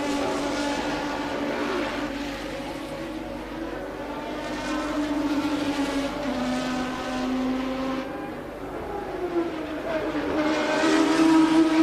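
1988 Formula One car engine running at racing speed, its pitch rising and falling with throttle and gear changes; it drops about eight seconds in, then climbs again near the end.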